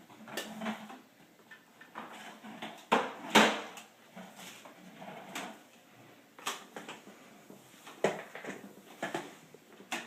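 Plastic toy trucks being handled and worked: irregular clicks, knocks and clatter, with a louder clunk about three and a half seconds in.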